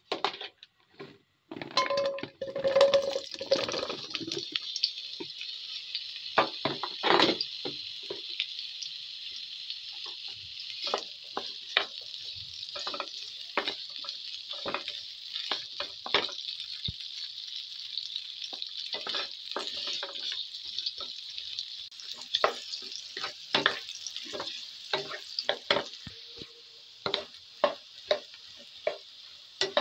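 Sliced sausages frying and sizzling in a nonstick pan, the sizzle starting about two seconds in and running steadily. A wooden spatula stirs them, with frequent clicks and scrapes against the pan.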